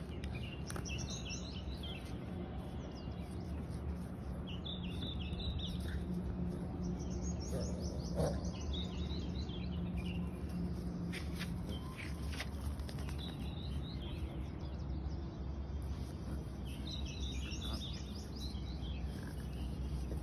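Small birds twittering in short quick phrases every few seconds, over a steady low hum. A few faint clicks come around the middle.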